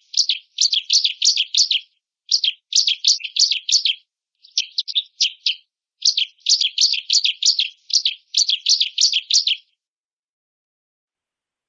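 Bar-winged prinia (ciblek) singing a fast, high-pitched chattering song. Its sharp notes come in quick runs of several phrases separated by short pauses, and the song stops near the end.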